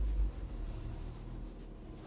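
Citroën turbo petrol engine heard from inside the cabin just after starting: a loud low rumble in the first moment that settles into a steady idle. It is running after its fuel-system adaptations were reset with a scan tool to clear a low fuel-rail-pressure fault.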